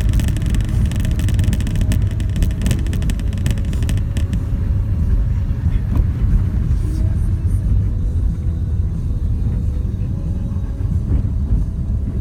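Renault Duster 4x4 driving off-road: a steady, heavy rumble of engine and tyres, with a crackling noise over it during the first four seconds or so.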